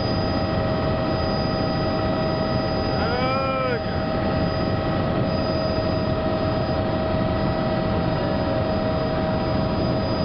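Helicopter in flight, heard from on board: a steady, loud engine and rotor noise with constant whining tones. A short rising-and-falling voice-like sound comes about three seconds in.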